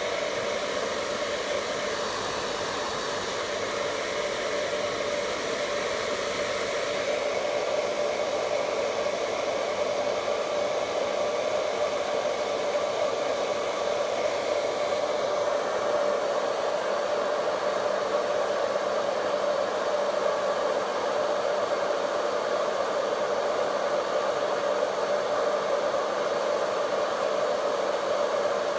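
Vidal Sassoon Hot Tools hair dryer running steadily: an even rush of blown air with a steady hum under it.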